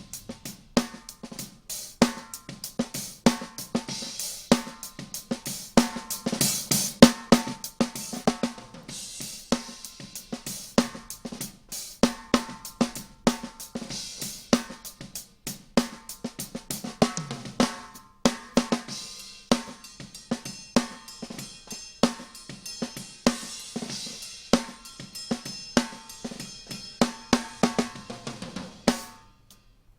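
Recorded drum kit playing a steady beat: kick, snare, hi-hat and cymbals, with no other instruments standing out. It stops suddenly about a second before the end.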